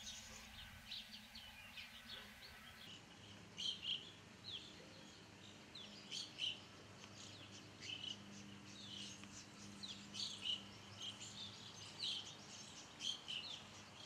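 Small birds chirping: many short, high chirps and call notes. The background noise changes abruptly about three seconds in.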